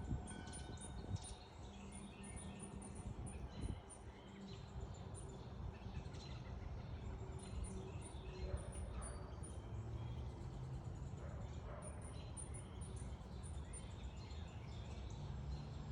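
Wind rumbling on the microphone, with clear ringing chime-like tones sounding now and then and many short, faint, high bird chirps.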